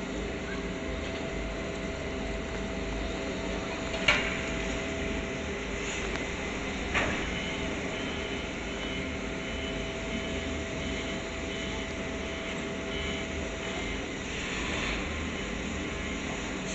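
Steady mechanical hum and hiss around the C62 steam locomotive, broken by two sharp metallic clanks about three seconds apart.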